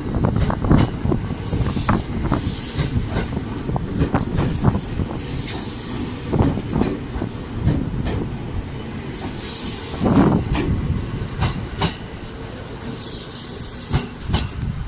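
Train running along the track, its wheels clacking and knocking over rail joints, with a steady rumble and a few short spells of high hissing.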